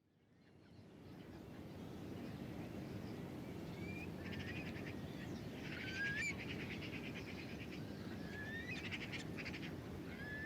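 Natural outdoor ambience fading in: birds calling with short sliding whistles and fast trills, over a low steady rumble.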